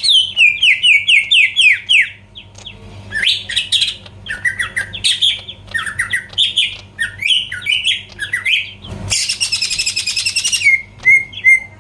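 Cucak ijo (green leafbird) singing: fast runs of short, downward-sliding whistled notes, breaking about nine seconds in into a dense, harsher chattering passage, then a few short notes near the end.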